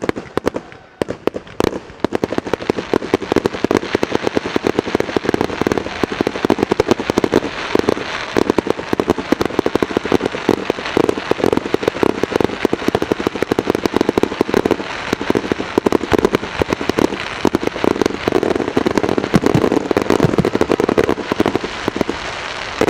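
Fireworks display going off in a dense, continuous barrage of rapid bangs and crackles, many a second, which stops abruptly near the end.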